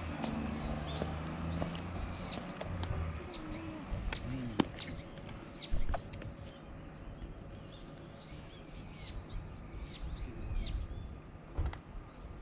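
A bird calling: a run of short, high notes that rise and fall, about one a second, seven in a row, then three more after a pause. Two sharp clicks, about halfway, stand out over a faint steady hiss.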